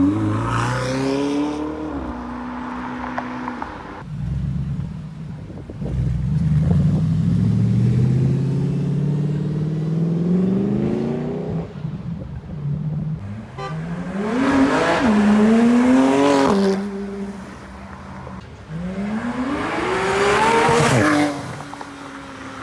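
Ferrari V8 and V12 sports car engines revving and accelerating away one after another, each rising in pitch as it pulls away. The last one cuts off sharply near the end.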